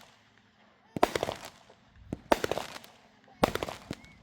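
Fireworks going off: three bursts about a second apart, each a loud bang followed by a quick run of sharp crackling cracks that dies away within half a second.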